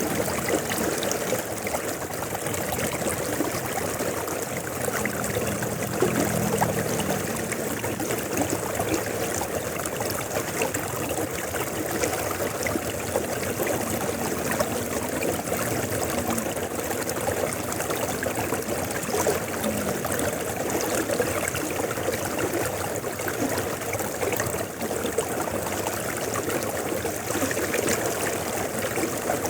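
River water flowing steadily, an even, continuous rush.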